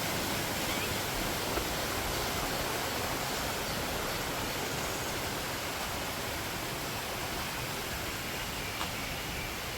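Steady rushing of running water, an even hiss that holds constant throughout.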